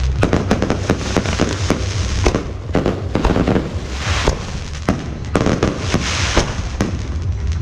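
Fireworks going off in quick, irregular succession: many sharp bangs and cracks over a dense crackling hiss, with a steady low rumble beneath.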